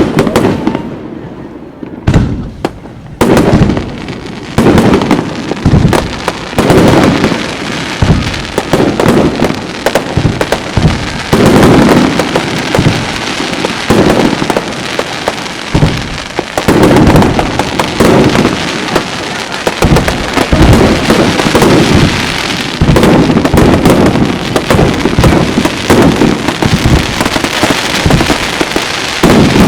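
Fireworks display: shell bursts banging one after another. There are a few separate bangs at first, then from about four seconds in a thick barrage with hardly a pause.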